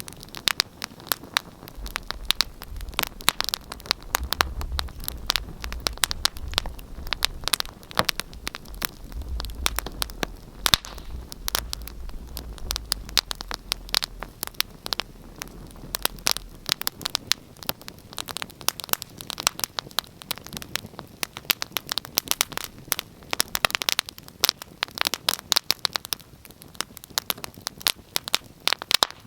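Wood fire burning in a fireplace, crackling with dense, irregular pops and snaps. A low rumble sits under the crackle through the first half.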